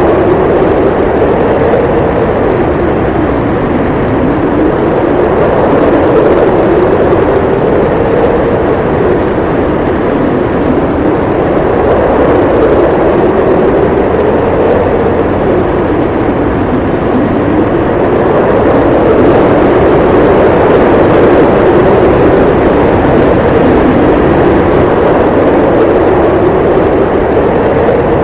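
Howling blizzard wind: a loud, steady rush with a low howl that slowly rises and falls in pitch every few seconds.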